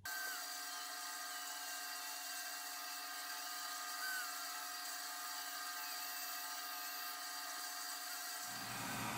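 A small electric motor running steadily with a constant hum, starting abruptly.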